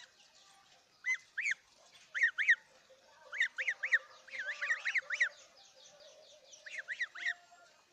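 Birds calling: short, harsh, arched notes in quick runs of two to six, repeated several times.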